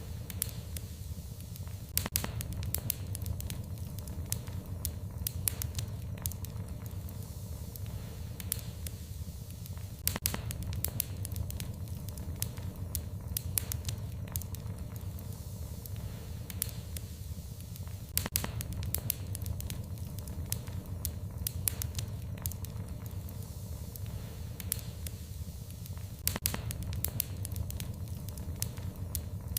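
Wood fire in a fireplace crackling, with sharp pops and snaps over a steady low rumble of the flames. The pops come in clusters about every eight seconds.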